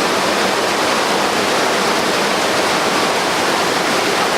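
Steady rush of falling water from a mountain stream and waterfall, an even hiss with no breaks.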